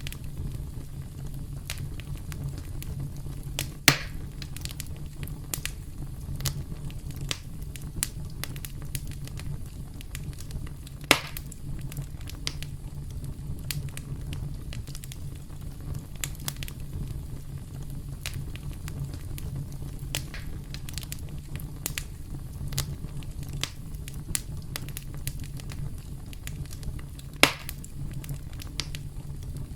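Campfire burning with a steady low rumble and frequent crackles, and three loud pops scattered through it.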